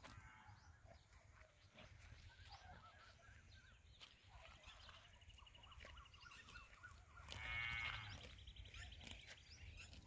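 Faint outdoor ambience of small birds chirping and trilling, with one louder call about seven and a half seconds in, over a low steady rumble.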